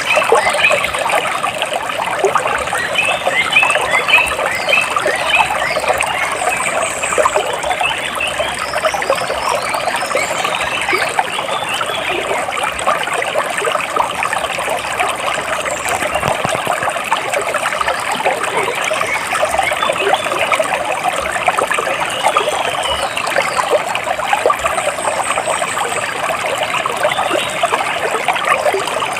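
Water splashing and trickling steadily, a dense patter of small splashes. Birds chirp over it now and then, most busily in the first few seconds.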